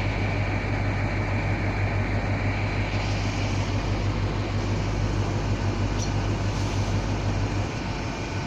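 A train running, with a steady low hum under the wheel and rail noise. A thin high whine fades out about three seconds in.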